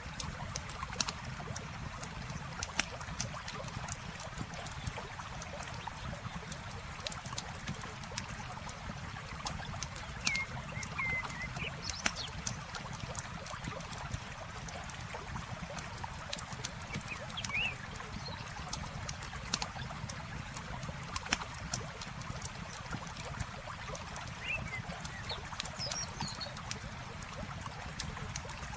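Campfire crackling, with frequent sharp pops over a steady wash of flowing water, and a few short bird chirps now and then.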